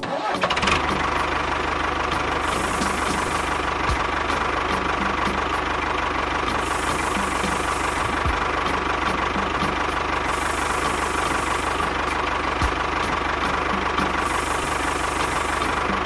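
Tractor engine running steadily at idle. It cuts in abruptly at full level, and its pattern repeats every few seconds like a looped engine sound effect.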